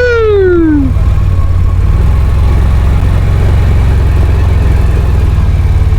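CFMoto CForce 850 quad bike's engine running with a steady low rumble. A man's shout, "Yoo-hoo!", falling in pitch, comes in the first second.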